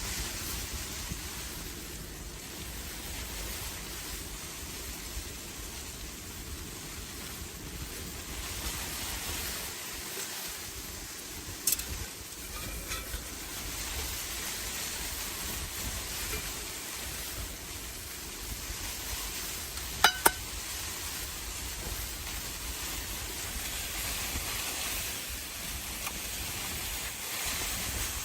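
A steady hiss with a few sharp clicks: one about twelve seconds in and a quick double click about twenty seconds in.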